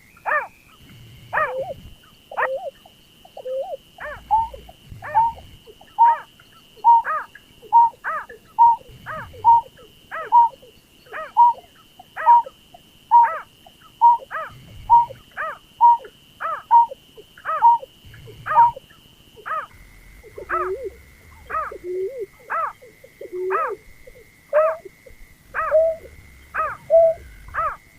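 Berkik (pekung) bird calling over and over, about one short note a second, each note sweeping steeply downward; the notes dip lower for a few seconds about two-thirds through. A thin steady high tone runs underneath and steps down slightly partway through.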